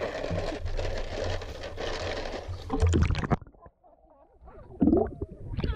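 Pool water splashing and sloshing close to the microphone; the noise cuts off abruptly about three and a half seconds in, then a sharp splash comes near the end.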